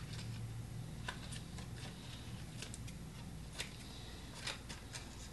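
Faint scattered ticks and scratches of painting materials being handled on a work table, over a steady low hum.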